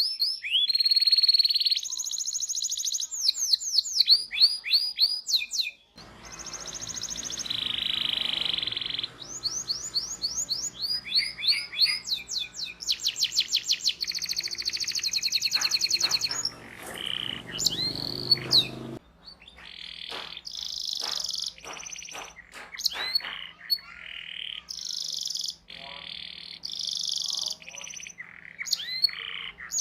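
Domestic canary singing a long, loud song of fast rolled trills and rapid strings of repeated 'cuit cuit' chirps, the phrases changing every second or two. The background shifts abruptly about six seconds in and again past the middle.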